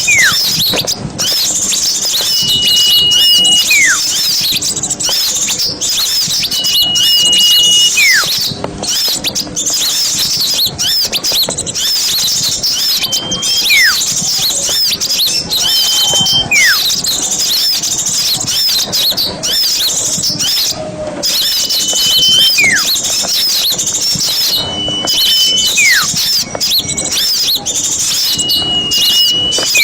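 Many small songbirds chirping and twittering in a dense, high-pitched chorus. Over it a single call repeats about every three seconds: a level whistled note that ends in a quick downward slur.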